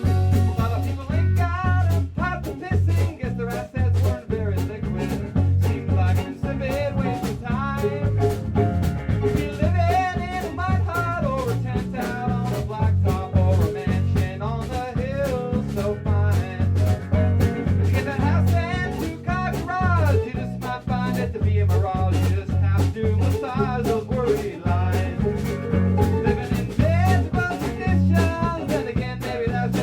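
A live band plays a song: guitar and drums over a steady, pulsing bass line.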